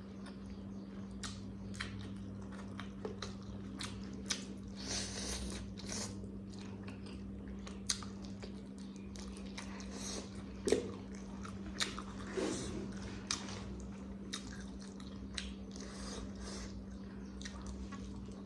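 Close-miked chewing and biting: a person eating a home-cooked meal, with scattered crunches and short wet clicks over a steady low hum.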